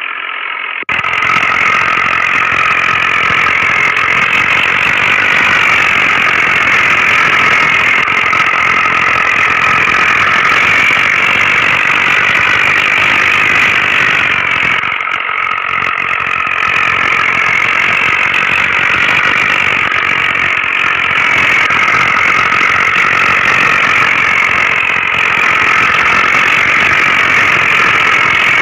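Mini tractor engine running steadily, its pitch rising and falling slightly.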